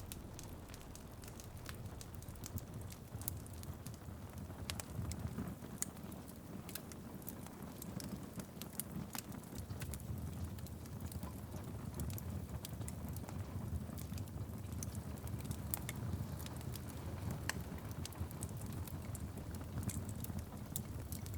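Wood fire in a fireplace crackling, with frequent irregular sharp pops and snaps over a steady low rumble, mixed with rain pattering on a window.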